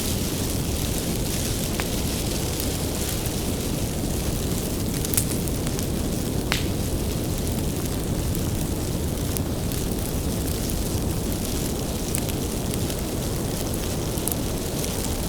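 Wood bonfire burning: a steady low rush of flames with scattered sharp crackles and pops from the firewood, the sharpest a little past five seconds in and again about a second later.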